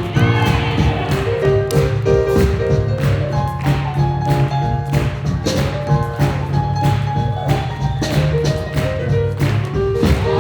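Live swing jazz band playing with a steady beat, drum strikes keeping time under held melody notes.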